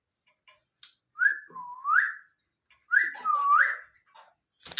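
Pet green parrot giving two whistled calls, each a short held note that dips and sweeps upward. A burst of louder, harsher calls starts right at the end.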